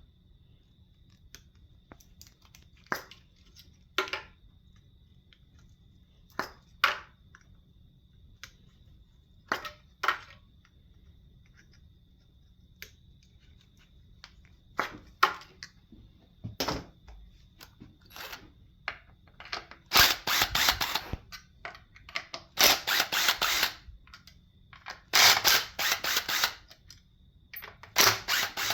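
Scattered sharp clicks and knocks of tools on metal engine parts, then, from about two-thirds of the way in, four short bursts of rapid clattering from tool work on the engine.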